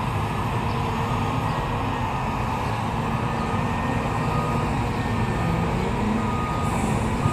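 Heavy diesel machinery running steadily, with a reversing alarm beeping now and then.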